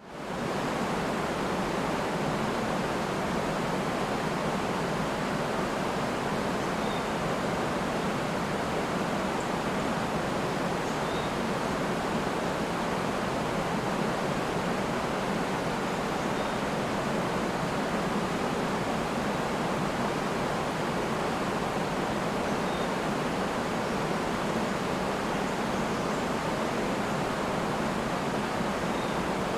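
Steady rush of river and waterfall water, fading in at the very start, with a few faint bird chirps scattered through it.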